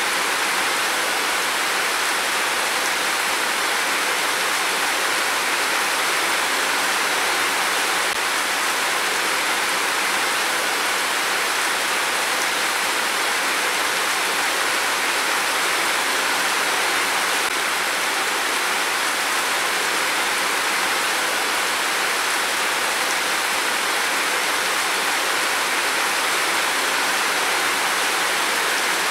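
Heavy rain pouring down steadily, an even hiss with no thunder in this stretch.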